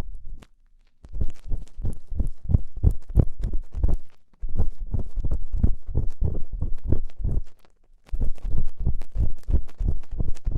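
Ear-cleaning ASMR tool scraping and scratching close against a microphone's ear, in quick strokes about four or five a second. It comes in three runs with two short pauses, about a second in and around four and eight seconds in.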